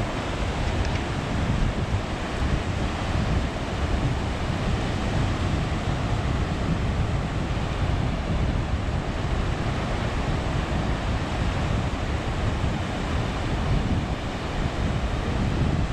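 Ocean surf washing on the beach, a steady rush, with wind buffeting the microphone in a low rumble.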